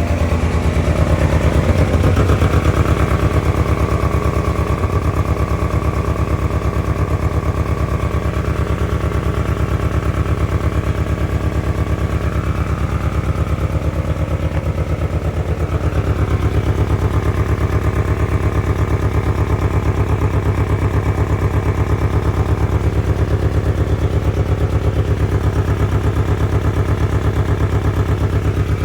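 1997 Ford Ranger's four-cylinder engine idling roughly, a steady run of exhaust pulses. The truck sat unused from 2011 and still runs on its old gasoline and spark plugs.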